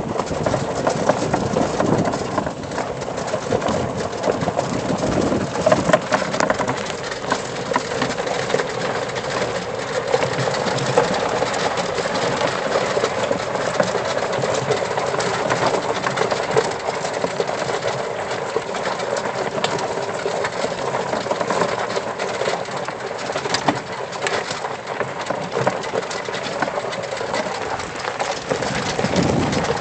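Battery-electric off-road vehicle driving along a dirt trail: steady motor and drivetrain noise with tires rolling over the ground and scattered knocks over bumps.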